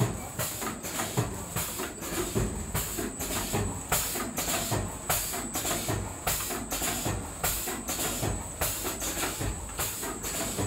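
Automatic pouch-packing machine running, with hissing, clacking strokes in a fast, even rhythm of a little over two a second over a steady high whine, each stroke a pouch being formed, sealed and cut.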